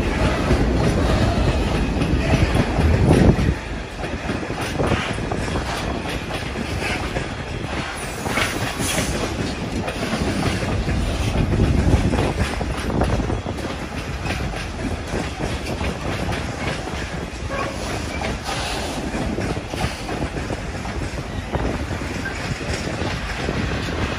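Container freight train's flat wagons rolling past close by: a steady rumble of steel wheels on rail with irregular clacks as the wheels cross rail joints. The low rumble is heavier for the first few seconds, then settles.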